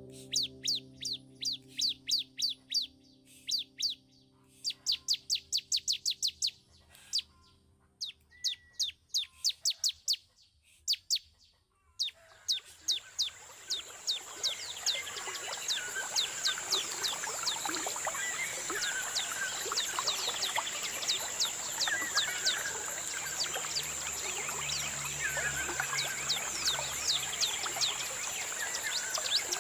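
Birdsong: bouts of quick, sharp chirps in rapid series, with a music chord fading out under the first few seconds. About twelve seconds in it changes to a fuller outdoor ambience of several birds chirping and whistling over a steady high-pitched hiss.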